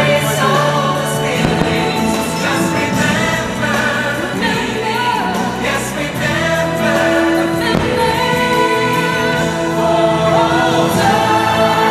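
A choir singing over musical accompaniment: the holiday soundtrack of a fireworks show.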